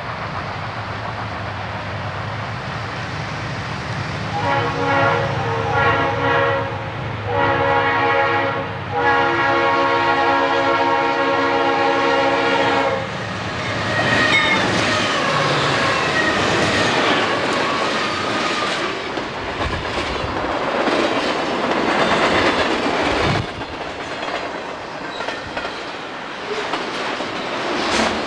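Conrail freight train's diesel locomotives approaching with a low engine rumble, then sounding a multi-note horn four times, the last blast held about four seconds. The locomotives then pass close and the freight cars roll by, rattling, with clicking wheels that grow quieter near the end.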